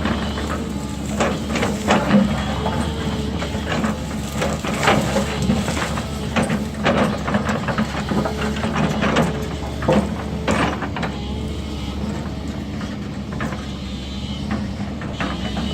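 Heavy earthmoving machine's engine running steadily, with repeated sharp clanks and knocks of metal and rock as it works the ground.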